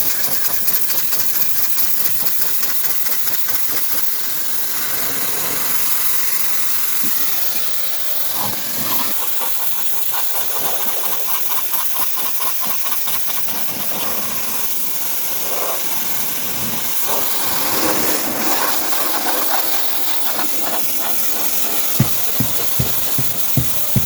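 Pressure washer spraying water, a loud steady hiss with the motor running underneath. About two seconds from the end, evenly spaced low thumps start, about two a second.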